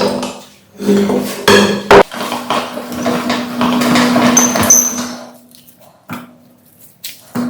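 Meat grinder working jelly candy: rapid metallic knocking and clinking over a steady low hum, thinning out to a few faint ticks after about five seconds.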